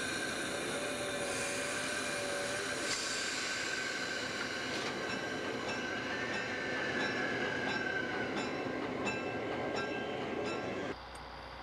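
Diesel-electric locomotive rolling along the track, with a steady high whine over the running noise and a run of rail clicks in the second half. It cuts off abruptly near the end.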